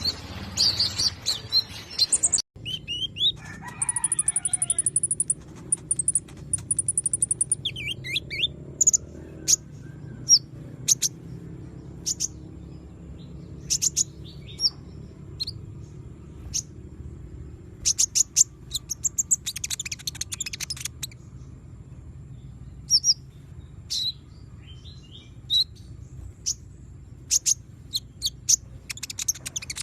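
Kolibri ninja sunbird singing: rapid, high, thin chirps and short trills in scattered bursts, over a steady low hum.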